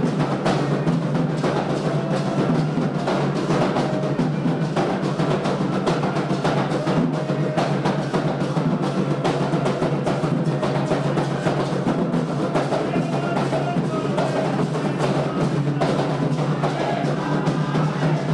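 Candomblé ritual drumming on atabaque hand drums: a dense, continuous rhythm with no break.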